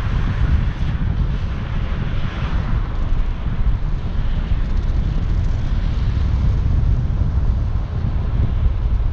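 Wind buffeting the microphone: a loud, uneven low rumble with a fainter hiss above it.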